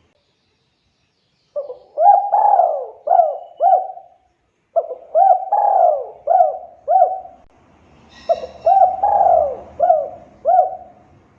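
Spotted dove (tekukur) singing its cooing song: three phrases of about five short coos each, a second or so apart. A brief higher chirp sounds at the start of the third phrase.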